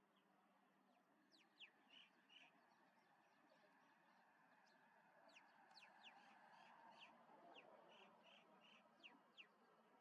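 Faint bird calls: scattered quick, high whistles that sweep downward, mixed with short chirps, starting about a second in and running on to near the end.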